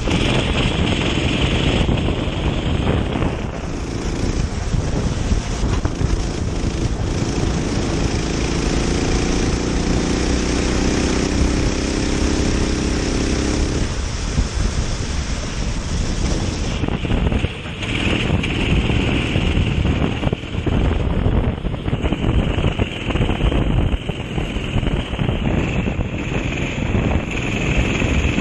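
Kart engine running at racing speed on a wet track, heard onboard through heavy wind buffeting on the microphone; the engine note comes through more clearly for several seconds in the middle.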